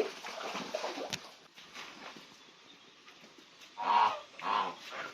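Two short pitched animal cries in quick succession about four seconds in, after a stretch of scattered knocks and rustling.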